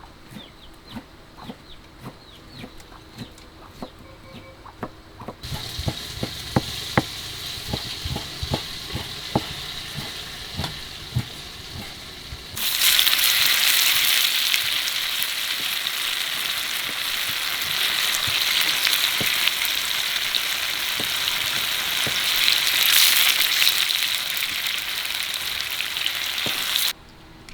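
Food frying in hot oil. A soft sizzle with occasional knocks of a utensil turns, a little before halfway, into a much louder sizzle that holds steady and then cuts off abruptly near the end.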